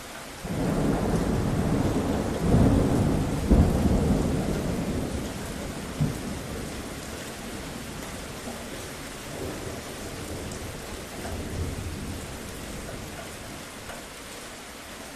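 A thunderclap over steady rain: a sudden loud rumble about half a second in, with sharper cracks a few seconds in, then rolling away slowly into the steady rain.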